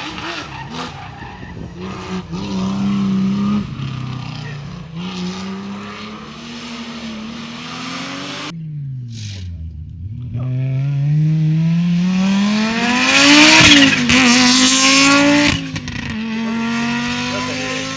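Rally car engine running hard: its pitch falls, then climbs steeply under full acceleration to a peak about three-quarters of the way through, with a loud rush of tyre and road noise as it goes by, then settles to a steady drone.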